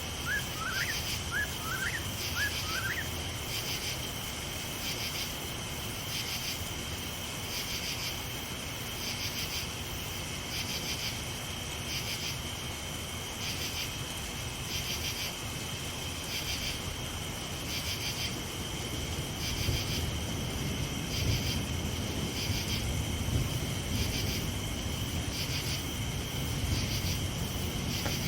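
Night insects chirping in a steady pulsing chorus, about one pulse a second, over a steady hiss. A few short rising chirps sound in the first three seconds, and a low irregular rumble, distant thunder, comes in about two-thirds of the way through.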